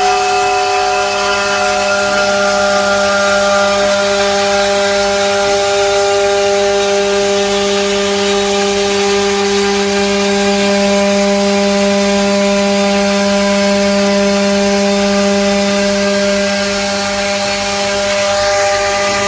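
CNC glass-processing machine running, a steady pitched hum over a constant hiss, with no change in pitch or level.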